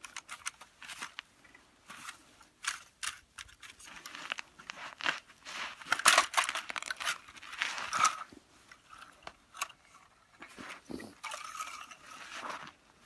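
Irregular crunching and scraping as plastic toy construction vehicles push and scoop through play snow, with many small clicks and rustles.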